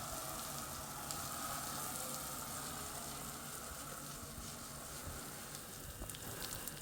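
Food frying in hot oil: a steady sizzling hiss.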